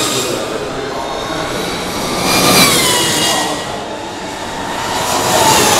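Electric racing motorcycles passing at speed: a high motor whine over tyre and wind noise that falls in pitch as one bike goes by about two and a half seconds in, with another growing louder near the end.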